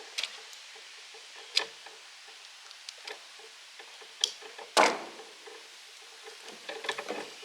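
Hand work on an old electric motor's wiring: scattered sharp clicks and knocks of hand tools and metal parts. The loudest is a clack with a short rustle just before five seconds in, and a quick run of clicks comes near the end.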